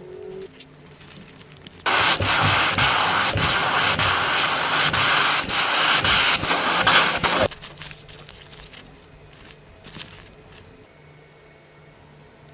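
A pressurised spray hissing steadily for about five and a half seconds, then cutting off suddenly; it is typical of a compressed-air spray gun or air blower used in car restoration.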